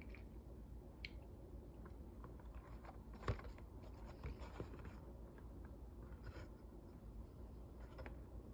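Faint handling noise from a plastic VHS case being held and turned: light scattered taps and rustles, with one sharper click about three seconds in.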